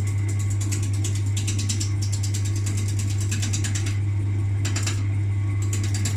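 Wood lathe running with a strong steady motor hum, while a turning tool cuts the spinning glued-up pallet-wood bowl blank with a rapid, rough chattering.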